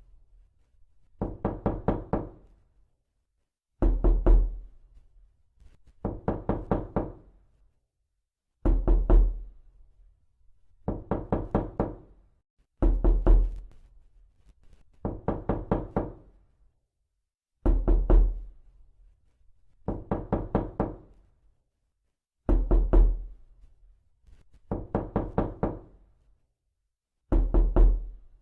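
Knocking on a door: quick runs of five or six raps about every two seconds, the runs alternating louder, with a deep thud, and softer, with silence between them.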